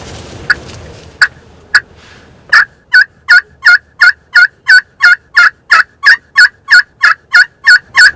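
A series of turkey yelps: three single sharp notes, then from about two and a half seconds in a fast, even run of about seventeen loud yelps, roughly three a second.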